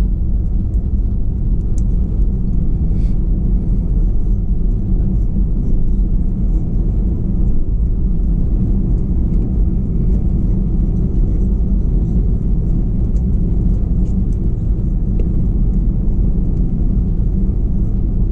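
Cabin noise inside an Airbus A321 from a rear window seat: a steady, heavy low rumble of the CFM56 jet engines and airflow, with faint scattered ticks and rattles.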